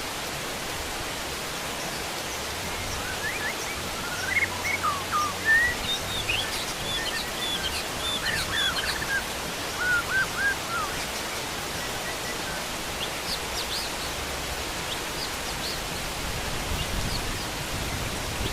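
Steady heavy rain, with a wild bird giving a run of short, quick chirps from about three to eleven seconds in and fainter, higher chirps later.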